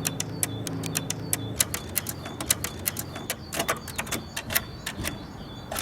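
A run of irregular, sharp clicks and knocks, with a low hum fading out over the first second or so.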